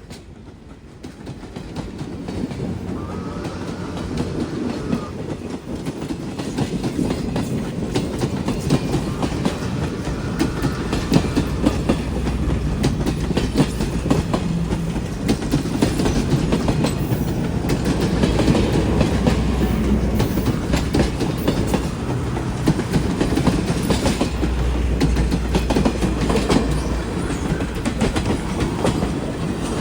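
A freight train passing close by. The sound builds over the first couple of seconds into a steady low rumble, with rapid clicking of the wheels over the rail joints.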